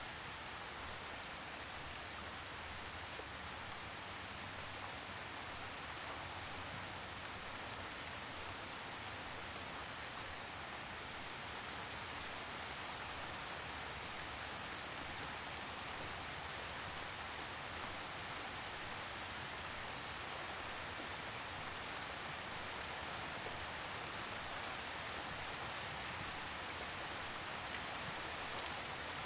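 Steady light rain, a soft even hiss of drizzle with scattered small drop ticks.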